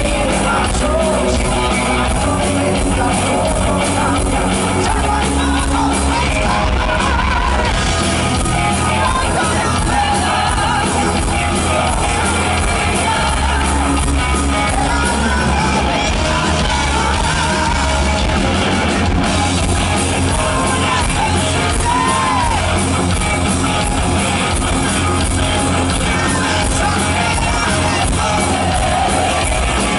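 Heavy metal band playing live at full volume, with electric guitars, bass, drums and a singer's voice over the top.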